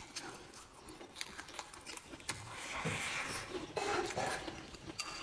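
Close-up chewing and wet mouth sounds of a person eating rice with fried pork belly: irregular smacks and small clicks, with a soft hissing stretch around the middle.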